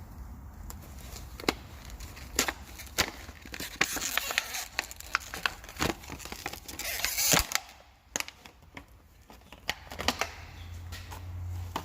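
Hand tools being handled in a workshop: a string of sharp clicks and knocks, with a longer scraping, rustling stretch in the middle, over a low steady hum.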